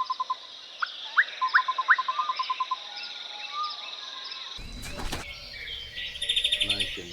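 Birds chirping: rapid runs of short repeated pips and a few quick rising whistled notes over a steady high trill. About two-thirds through it cuts abruptly to a different outdoor recording, with a brief rapid chattering call near the end.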